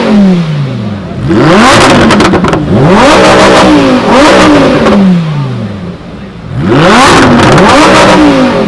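A car engine revved hard again and again with the car standing still, about half a dozen times: each rev climbs quickly and then falls away more slowly.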